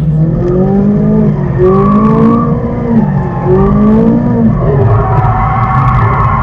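Ferrari 458's V8 engine heard from inside the cabin while drifting, its revs rising and falling twice in quick succession. From about five seconds in the note holds higher and steadier, with more rough noise mixed in.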